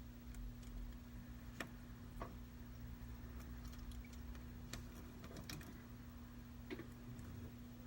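Faint, scattered small clicks and taps, about half a dozen over several seconds, from fitting the display's flex-cable connectors onto an iPad Pro 10.5 logic board, over a steady low electrical hum.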